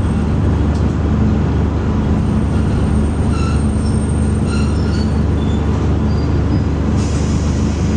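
Diesel railcar heard from inside as it draws up to a station platform: a steady low rumble, with a few faint brief high squeals about three to five seconds in.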